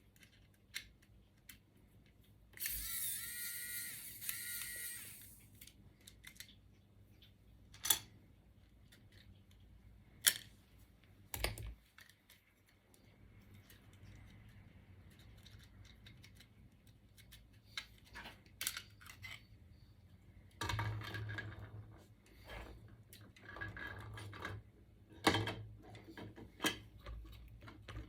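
Small clicks, taps and rattles of hand tools and plastic and metal parts being handled while a Creality Sprite extruder is taken apart. About three seconds in there is a two-second rasping noise with a high tone in it.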